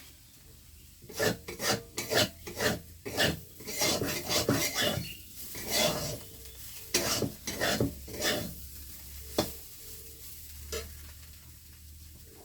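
A utensil stirring and scraping food in a cooking pan: a run of irregular scrapes over about seven seconds, then a single knock.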